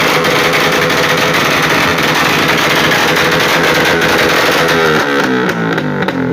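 Yamaha Y15ZR 150 cc single-cylinder motorcycle engine held at high revs, loud and steady, then about five seconds in the revs drop and are blipped up and down several times.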